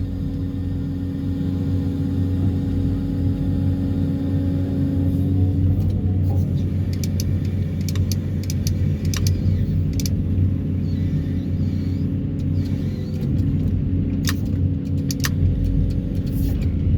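Excavator and its hydraulic vibro hammer running steadily while pulling steel sheet piles, a deep steady rumble and hum. A tone in the hum falls away about six seconds in, and short sharp clicks or clanks come through in the second half.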